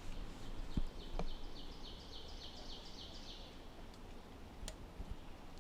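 A songbird singing a faint, even series of about ten short down-slurred high notes, about four a second, that stops about three and a half seconds in.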